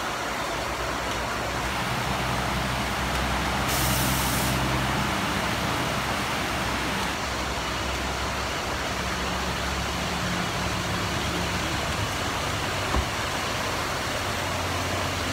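Heavy rain pouring steadily, with a truck engine running beneath it and a short hiss about four seconds in. A tractor-trailer's tyres spray through standing water near the end, with a single thump shortly before.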